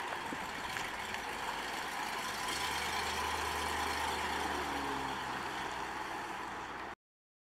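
1955 Buick Roadmaster's 322 cubic inch V8 running as the car drives slowly past and pulls away, over a steady hiss of wind on the microphone. The low engine note is clearest in the middle as the car passes close, and the sound cuts off suddenly near the end.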